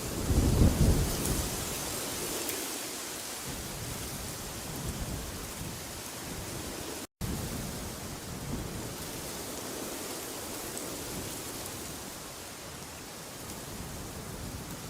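Steady rushing wind noise, with a loud deep rumble in the first second or so. The sound cuts out for an instant a little past halfway.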